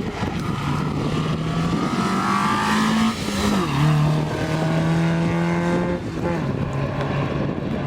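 Rally car engine under hard acceleration, its pitch holding then dropping sharply three times as it shifts up through the gears.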